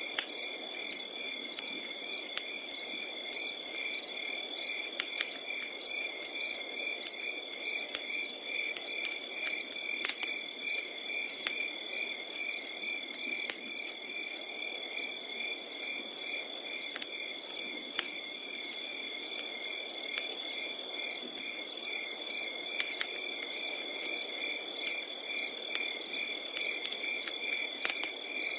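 Crickets chirping at night: a continuous high trill with pulsed chirps repeating about twice a second. Over it, a wood fire crackles with scattered sharp pops.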